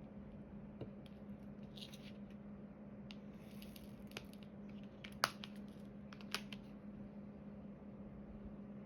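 Small clicks and brief rustles of diamond painting work: resin drills being picked up and tapped into place with the drill pen. The loudest is a sharp click about five seconds in, with another about a second later, over a faint steady hum.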